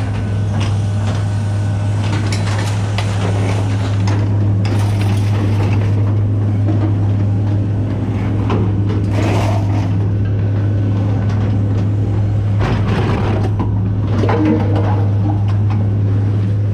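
A vehicle engine idling steadily with a low hum, and intermittent metal clanks and scrapes as scrap is unloaded.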